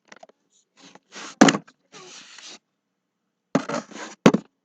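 Handling noise on a laptop's built-in microphone as the laptop is carried and set down: rustling and scraping with two sharp knocks, one about a second and a half in and one near the end.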